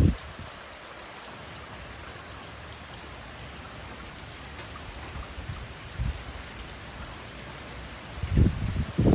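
Rain falling steadily, with short low gusts of wind buffeting the microphone, the strongest near the end.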